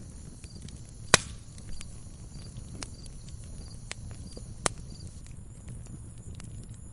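Wood logs burning in a fireplace: a steady low flame rumble with small crackles throughout, and two sharp, loud pops, about a second in and again about three and a half seconds later.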